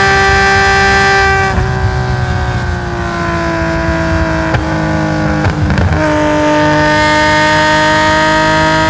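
Tuned Nissan S20 2.0-litre straight-six in a Skyline GT-R race car, on board: it holds high revs, then about a second and a half in the driver lifts off and the engine note falls away, broken by a few sharp cracks as it changes down through the sequential gearbox. Around six seconds in it is back on the throttle at a lower pitch, the revs climbing slowly.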